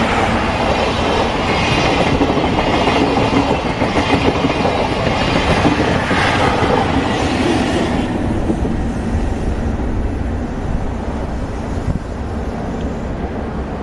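Train of 12-series passenger coaches with EF64 electric locomotives at each end passing close by, wheels clattering over the rail joints. The noise eases off about eight seconds in as the train moves away.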